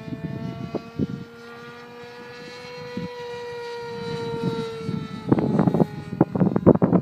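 Glow-fuel engine and propeller of a large R/C P-51 Mustang model running at high throttle, a steady buzzing tone whose pitch slowly rises and then sags. Wind buffeting the microphone takes over from about five seconds in.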